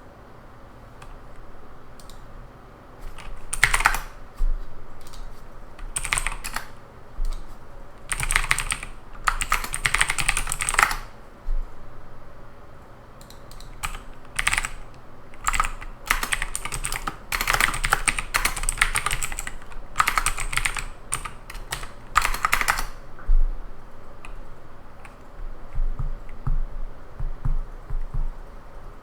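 Typing on a computer keyboard in bursts of rapid key clicks a second or so long, with short pauses between, thinning out to a few scattered clicks near the end.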